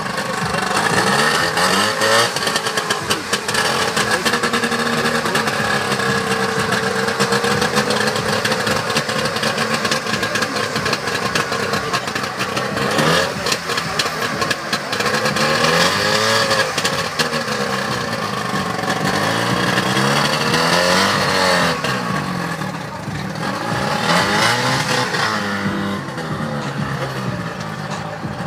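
Engine of a stripped-down, heavily modified show car running with its engine bay open, revved several times: its pitch rises and falls in sweeps about halfway through and twice more in the last third.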